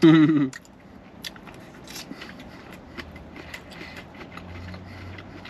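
Faint chewing and mouth sounds with scattered small clicks, and a faint low hum in the second half.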